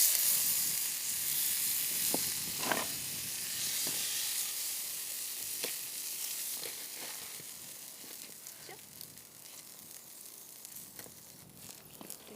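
Meat sizzling on a hot grill. The hiss starts suddenly and slowly dies down, with a scattering of small pops.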